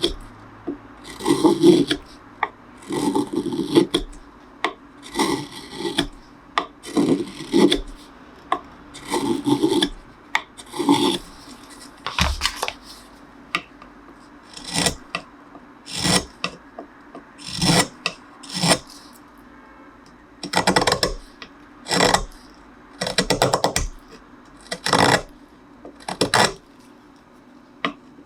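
Hand tool strokes scraping and shaving the wood of a cello neck, repeated about every one to two seconds. The strokes turn shorter and sharper about halfway through.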